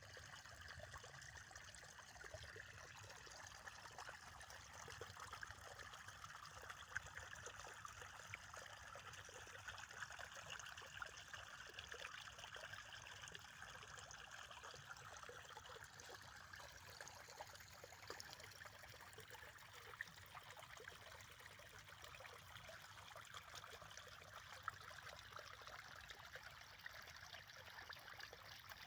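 Faint, steady trickling of running water, like a small stream, with small splashes scattered throughout.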